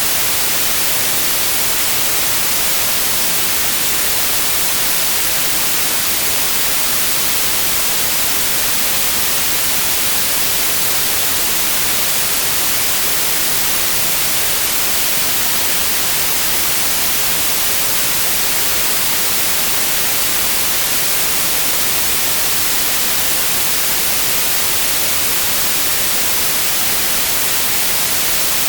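Synthetic white noise: a steady, unchanging hiss, strongest in the highs.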